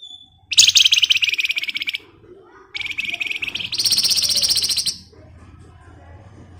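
Flamboyan (wergan Jawa) songbird singing two rapid rattling trills ('ngebren'). The first lasts about a second and a half. The second lasts about two seconds and jumps higher in pitch halfway through.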